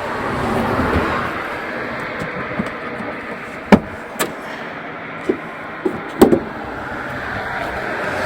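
Several sharp clacks and knocks, the two loudest about a third and three quarters of the way through, over a steady rushing outdoor noise that swells near the start and again at the end.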